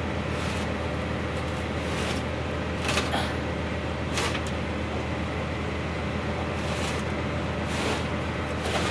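A truck engine idling steadily in the background, a continuous low hum, with several brief handling noises over it.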